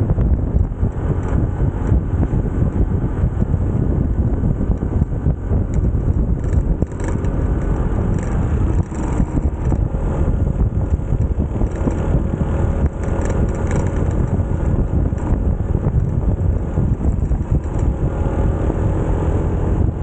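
Small single-cylinder motorcycle engine running at riding speed, its pitch drifting a little with the throttle, under heavy wind rumble on the microphone.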